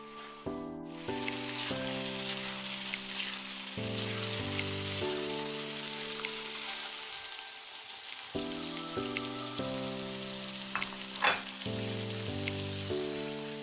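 Minced meat (qeema) sizzling in oil on a flat tawa griddle as it is stirred and turned with a silicone spatula, with a sharp tap of the spatula against the tawa about eleven seconds in. Background music with sustained notes plays over it.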